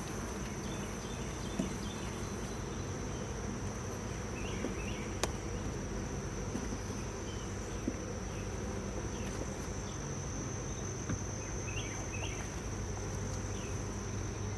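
Honey bees from an open, crowded hive buzzing in a steady drone, with a few sharp clicks along the way.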